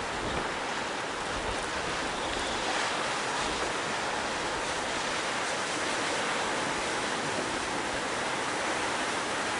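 Heavy ocean surf breaking and rushing in a strong wind, heard as a continuous wash of noise. There is some low wind buffeting on the microphone in the first few seconds.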